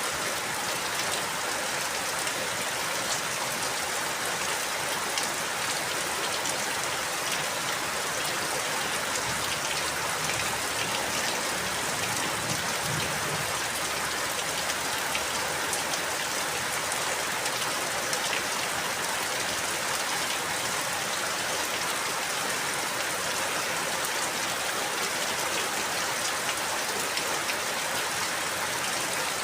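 Steady rain falling, a dense even hiss of drops with fine individual patters.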